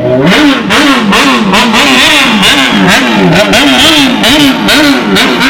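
Stunt motorcycle engine revved up and down over and over, about twice a second.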